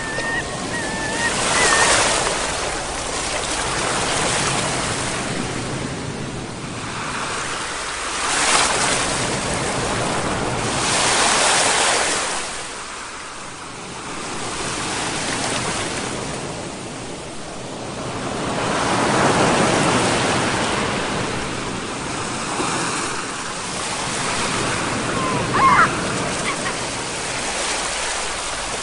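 Ocean waves breaking and washing on the shore, swelling and ebbing every few seconds. A brief high call rises and falls once near the end.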